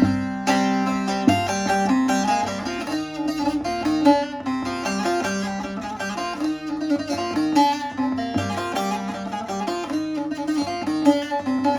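Short-neck bağlama with a mulberry-wood bowl being played: a quick, continuous run of plucked notes over a steadily ringing low drone.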